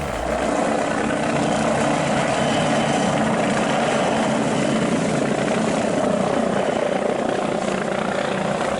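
Helicopter running, a steady, unbroken rotor and engine noise.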